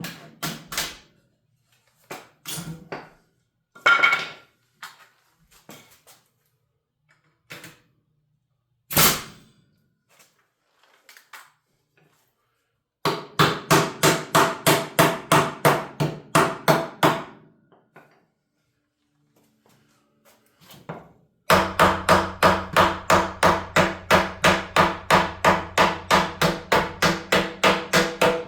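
Scattered knocks on wood framing, then two long runs of rapid, even strikes, about four or five a second, driving fasteners into a wall stud. The second run starts a little past the middle and goes on without a break.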